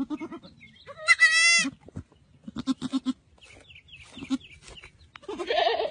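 Baby goat bleating: one loud, wavering, high-pitched bleat about a second in, with quieter short sounds after it.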